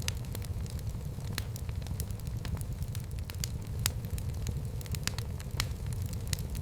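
Fire burning in a fireplace: irregular sharp crackles and pops over a steady low rumble of flame.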